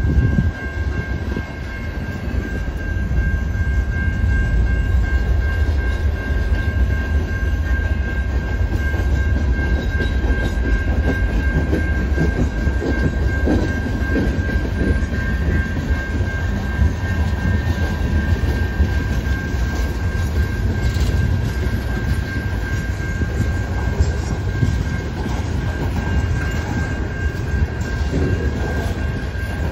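Heavily loaded freight train of covered hoppers and tank cars rolling slowly past at about 5 mph: a steady low rumble of wheels on rail with scattered clacks, over a thin, steady high-pitched tone.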